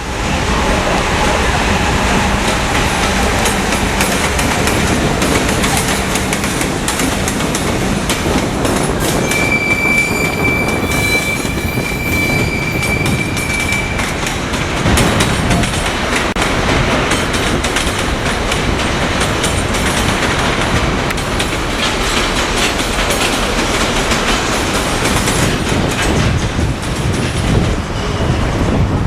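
Freight train of empty cement wagons rolling past, its wheels clattering steadily over the rail joints. About a third of the way in, a high, steady wheel squeal sounds for about five seconds.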